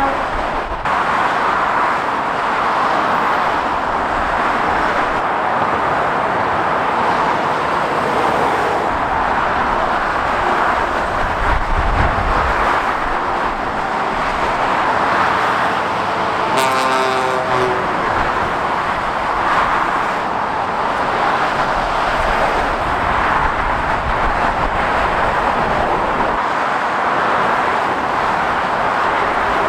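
Steady rush of heavy motorway traffic, tyres and engines of passing lorries and cars, with a short vehicle horn blast a little over halfway through.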